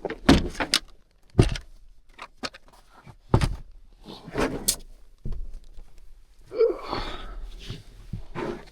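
A person shifting about and handling tools: irregular knocks and thunks with shuffling, and a longer scraping rustle about seven seconds in.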